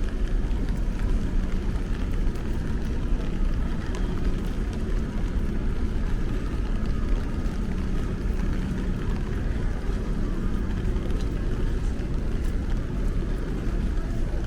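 Steady street ambience in the rain: a low rumble of traffic with a faint engine hum, and faint scattered ticks of raindrops.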